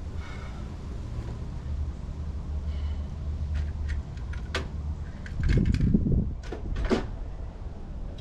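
A series of sharp clicks and knocks over a steady low hum, with a heavier thump about five and a half seconds in.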